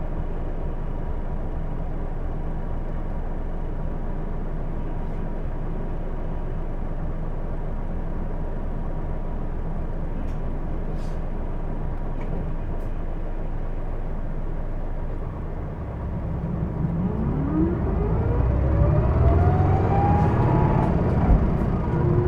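Hino Blue Ribbon II city bus's diesel engine idling steadily, then pulling away about 16 seconds in: the engine revs up in a low gear with a whine that rises in pitch with speed, and drops back near the end as the next gear is taken. The whine is part of the abnormal running noise this bus is known for.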